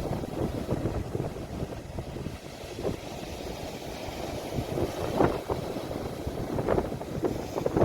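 Sea waves washing on the shore, recorded on a phone, with wind rumbling on the microphone. A few brief louder splashes come about five seconds in and again near the end.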